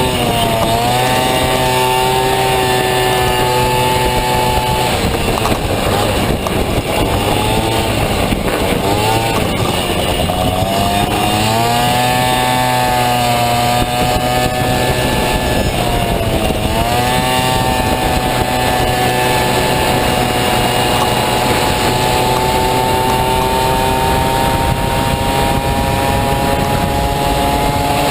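Two-stroke Honda Dio scooter engine in a Honda Motocompo, racing at high revs. The pitch drops sharply and recovers several times as the throttle is closed and reopened, then climbs slowly and steadily over the last third.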